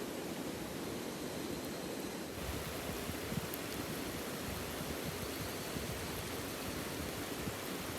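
River water rushing steadily as an even wash of noise that grows fuller and deeper about two seconds in.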